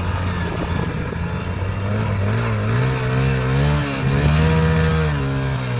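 Motor vehicle engine running under load, its pitch rising and falling in slow swells as it revs up and eases off.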